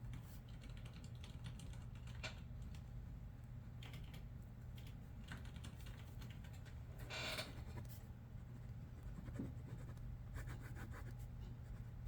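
Faint computer-keyboard typing: scattered keystroke clicks, with one longer scratchy rub about seven seconds in, over a steady low hum.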